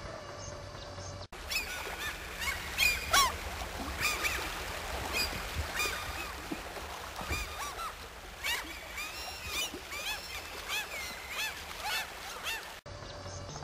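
A flock of birds calling over one another, many short, loud, overlapping calls. Before this, about a second of fainter birdsong cuts off abruptly.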